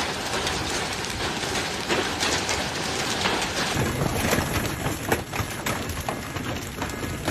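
Heavy rain pouring down, a steady dense hiss with many small scattered splashes.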